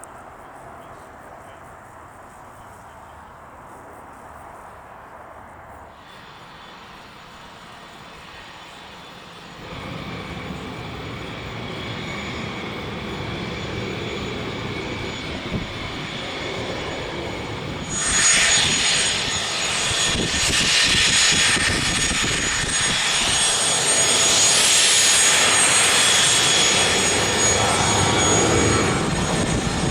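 Cessna Citation III business jet on approach to land, its twin Garrett TFE731 turbofans growing from a faint high whine to a loud roar. The level rises about a third of the way in and jumps sharply about two-thirds in, with a high steady whine on top.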